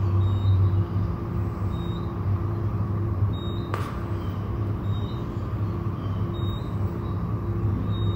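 A low, steady, rumbling drone from an ambient soundscore, with a few held higher tones over it and faint short high blips recurring every second or so. A single sharp swish-like click comes a little under four seconds in.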